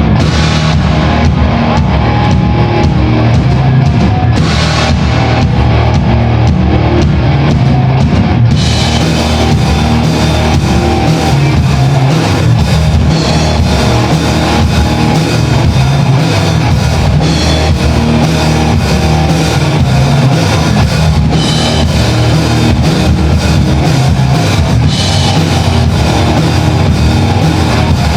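Rock band playing, with drum kit, bass drum and electric guitar. About eight seconds in the sound grows fuller and brighter as cymbals come in.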